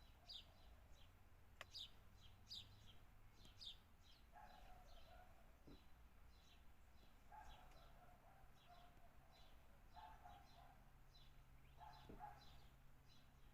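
Faint chirping of several small birds: short, high, falling chirps repeated all through. A lower sound of about a second comes four times, roughly every three seconds.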